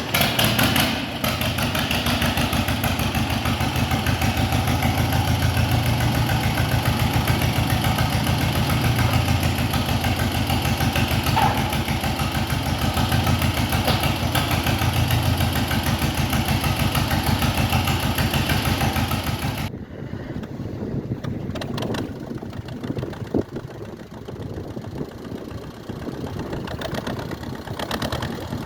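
1949 John Deere M tractor's two-cylinder engine running with an even, rapid firing beat. About two-thirds through, the sound drops suddenly to a quieter, duller level while the engine keeps running.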